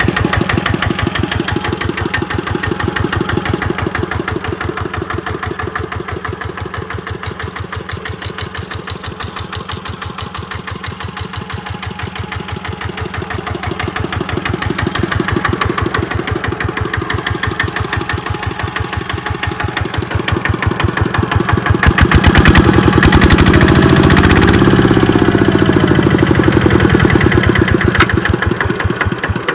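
Kubota RT90 walking tractor's single-cylinder diesel engine running with an even chug. It grows louder about two-thirds of the way through, with a brief change in engine speed.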